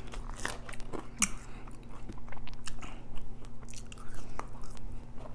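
Close-miked eating: irregular wet chewing clicks and mouth smacks as food is bitten and chewed, over a faint steady electrical hum.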